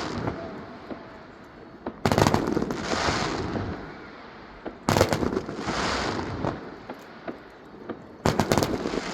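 Fireworks exploding: three volleys about three seconds apart, each a sudden cluster of bangs that fades out over a couple of seconds.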